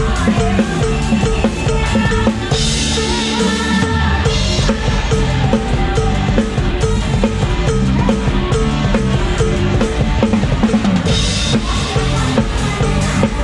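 Live band playing upbeat music with the drum kit to the fore, kick and snare driving a steady beat. Bursts of cymbal wash come in about two and a half seconds in and again about eleven seconds in.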